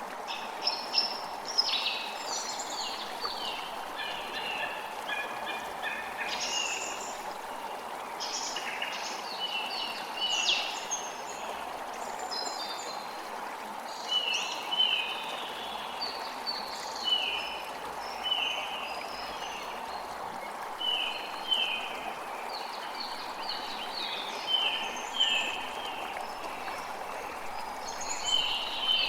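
Several songbirds singing over the steady rush of a flowing creek. In the second half one bird keeps repeating short falling notes, often two at a time, every couple of seconds.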